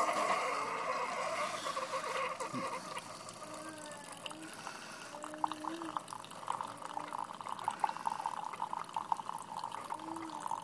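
Keurig K70 single-cup coffee maker brewing: hot coffee streaming and trickling into a mug while the machine runs. It starts abruptly, is loudest for the first couple of seconds, then settles into a steadier, crackly trickle.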